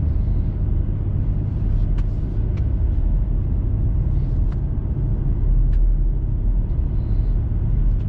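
Steady low rumble of engine and tyre road noise inside a four-wheel-drive vehicle's cabin as it climbs a plowed mountain road, with a few faint light ticks.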